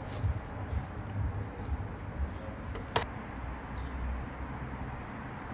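Light clicks and knocks of equipment being handled, with one sharp click about three seconds in, over a low, uneven rumble.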